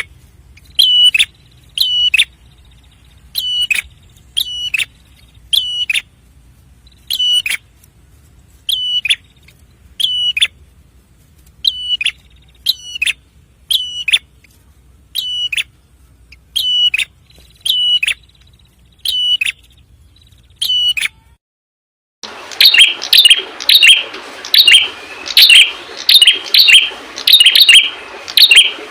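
Prenjak kepala merah calling: short, sharp, high chip notes repeated about once a second. After a brief silence about 22 seconds in, a busier, faster run of chattering chirps with background hiss takes over.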